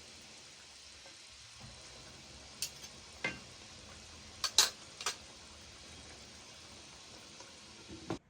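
Steady sizzling hiss of food cooking in a pan, with a stirring utensil knocking sharply against the pan about five times, loudest a little past halfway. The sound cuts off suddenly at the end.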